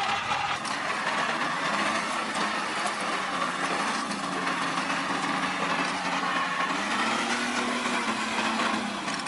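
Engine or motor running steadily, a continuous mechanical noise with a hum that drifts slightly in pitch.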